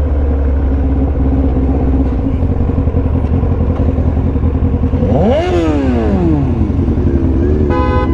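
Motorcycle engine running under way, revving up and then dropping back about five seconds in. A car horn sounds briefly near the end.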